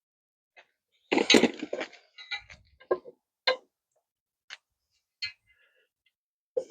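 Metal clinks and taps from hand tools and U-joint parts being worked on a driveshaft yoke. A cluster of knocks comes about a second in, followed by single sharp ticks about a second apart.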